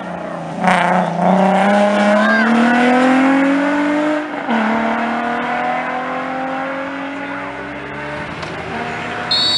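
Rally car engine accelerating hard, its pitch climbing for a few seconds, then dropping at an upshift about four seconds in and pulling up again. A sharp crack sounds just as it comes on full throttle, and there is a brief high squeal near the end.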